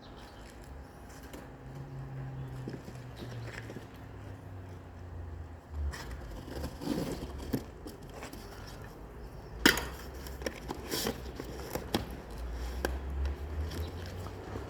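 Scattered knocks and clicks, one sharp and much louder about ten seconds in, over a low steady hum.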